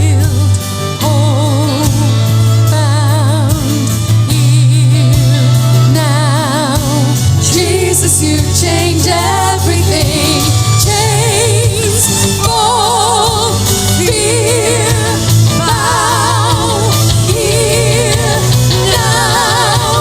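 Church worship music: a sung melody with vibrato over a band with steady, held bass notes.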